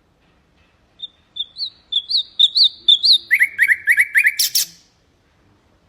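Nightingale singing one song phrase of about four seconds. It opens with short rising whistled notes that come faster and faster, then drops into a quick run of lower notes and ends in a hard rattle.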